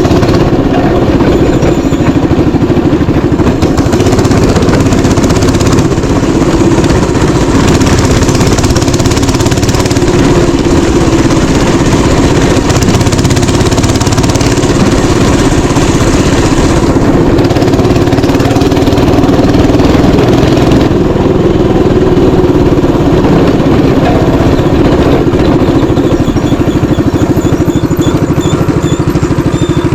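Small mini-bike engine running steadily and loudly, close to the microphone.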